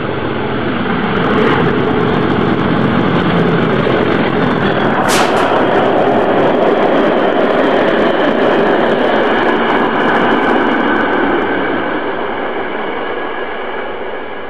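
A passenger train running through a station close by at speed: a loud rush of wheels on rail and moving air that builds over the first second or two, holds, then fades as the train moves away. A short sharp noise cuts through about five seconds in.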